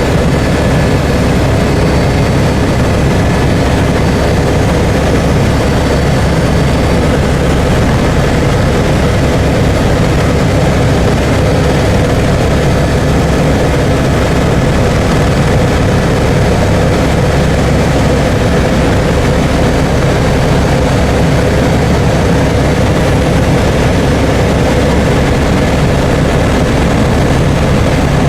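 Helicopter in flight: steady, loud engine and rotor noise with an even low hum and no change in pitch.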